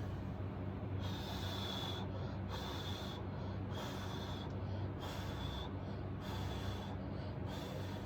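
Short bursts of hissing air, about one a second, each carrying a faint high whistle, over a steady low hum.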